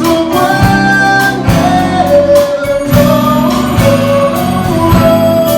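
A live church band and singers performing a Christmas hymn. Held sung notes carry the melody over guitar and a low accompaniment, with regular percussive strokes.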